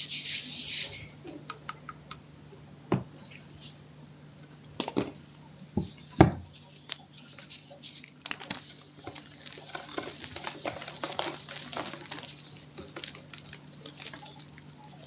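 Chalk being crunched, close up: a short hiss at the start, then a few separate sharp cracks, the loudest about six seconds in, turning into denser fine crackling from about eight seconds on.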